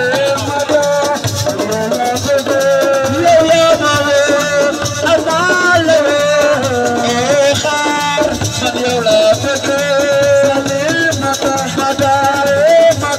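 Senegalese assiko band music: a voice singing a melody over a steady drum pattern and a continuous shaker rattle.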